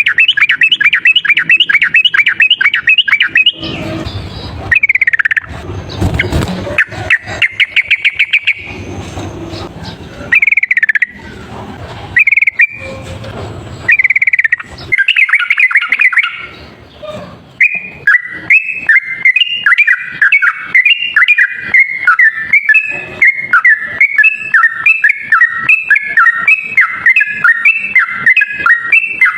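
Yellow-vented bulbul singing loudly in rapid chattering runs of bubbly notes. About two-thirds of the way in, the runs give way to one long, fast, unbroken series of notes alternating high and low: the rapid 'ropel' song used as a trapping lure.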